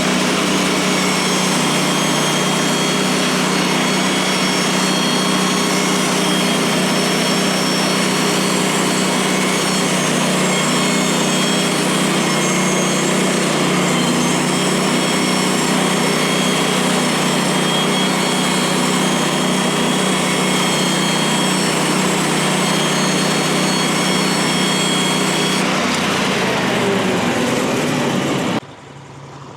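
Portable bandsaw mill running, its gasoline engine holding a steady pitch while the blade saws through a pine log. The sound shifts slightly near the end, then drops away suddenly.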